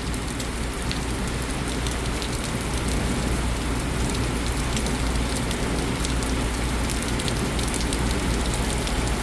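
Heavy thunderstorm downpour: a steady hiss of rain with many sharp little ticks of drops hitting close by.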